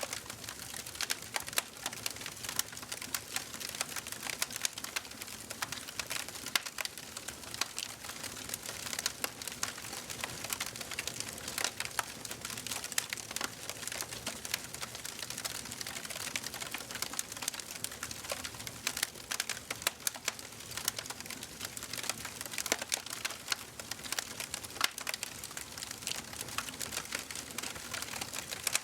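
Wood fire burning in a fireplace: a steady hiss with rapid, irregular crackles and pops throughout.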